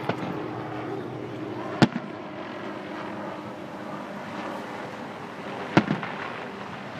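Aerial fireworks bursting: a small bang at the start, a sharp loud bang a couple of seconds in, and another near the end followed quickly by a second pop, over steady background noise.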